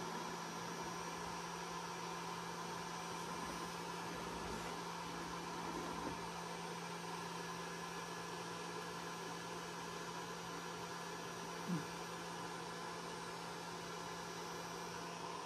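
Steady electrical hum over a faint hiss, with one short faint sound about twelve seconds in.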